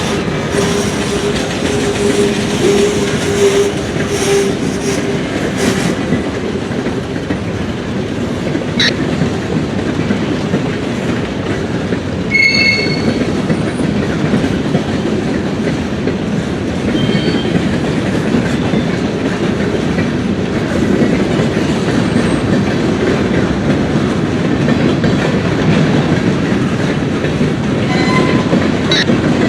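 A train rolling by, its wheels clattering steadily over the rail joints. A steady low tone sounds for the first several seconds, and a brief high squeal comes about twelve seconds in.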